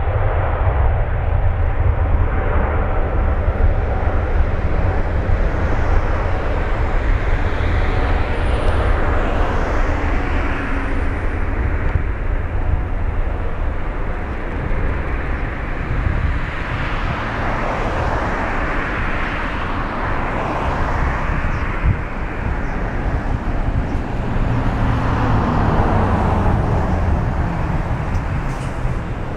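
Boeing 777-200 twin jet engines at takeoff thrust, a loud steady roar that swells and fades slowly as the airliner climbs away. Strong wind buffets the microphone, adding a heavy low rumble.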